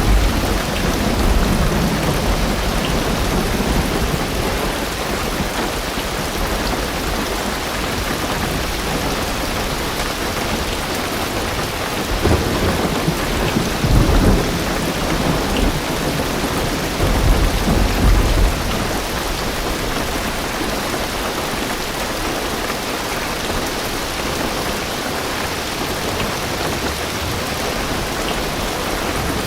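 Heavy rain drumming steadily on a car's roof and windows, heard from inside the car, with deep rumbles of thunder swelling near the start, about halfway through and again a few seconds later.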